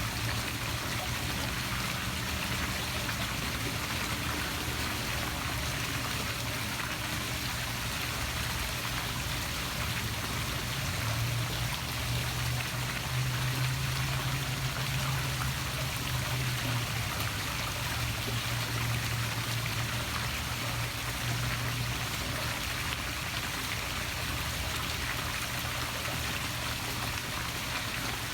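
Poolside waterfall splashing steadily into a pool, with a low steady hum underneath that grows louder for several seconds in the middle.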